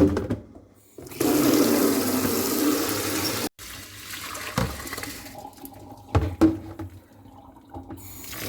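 Water running and splashing as bird seed is rinsed in a bucket; the flow stops abruptly a few seconds in, a few short knocks follow, and the water starts again near the end.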